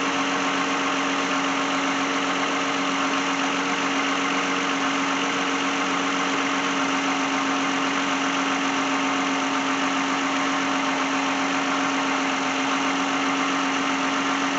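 2010 Lexus engine idling steadily after a jump start, a constant hum with no change in speed.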